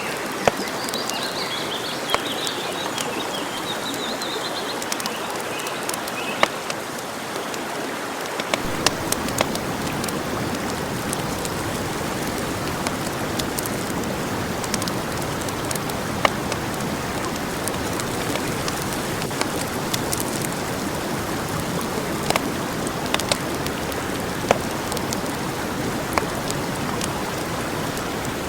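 Campfire burning: a steady hiss with sharp crackles and pops now and then. The hiss grows fuller and lower about eight seconds in. Birds chirp during the first few seconds.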